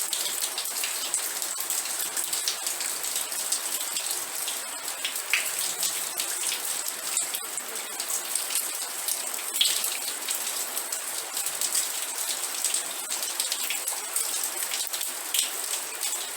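Steady rain falling on a surface, a dense hiss of many individual drops ticking, with a few louder single drops.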